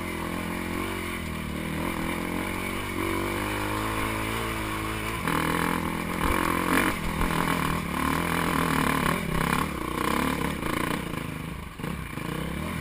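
Dirt bike engine running steadily, then about five seconds in it gets louder and rougher, with a rising and falling pitch and a clattering, scraping edge.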